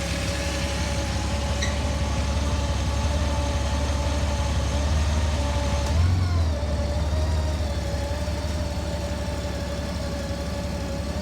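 Honda Goldwing GL1800's flat-six engine running steadily near idle during a reverse check, with a steady whine over the engine note. About six seconds in there is a brief rise and fall in engine speed.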